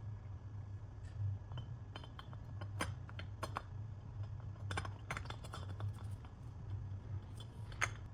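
Scattered light metallic clinks and clicks of hand tools and small metal parts being handled, over a steady low hum.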